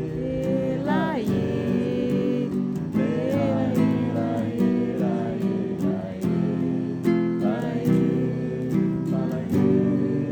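Acoustic guitar strummed, with a voice singing a few held, wavering notes over it.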